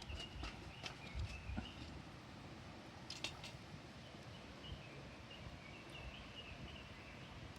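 A few sharp clicks and knocks in the first second and a half and a brief cluster around three seconds, then faint high chirping calls over quiet outdoor background noise.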